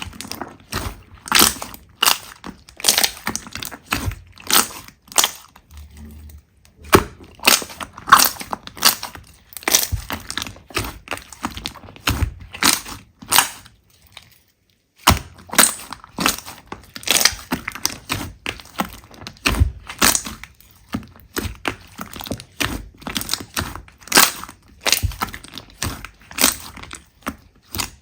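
Slime being squeezed and pressed by hand, giving a dense, uneven run of crackling pops and clicks, with a brief break about halfway.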